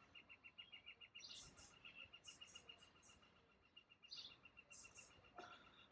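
Faint birds chirping outdoors: short high chirps, often in pairs, every second or so, over a fast, steady ticking trill.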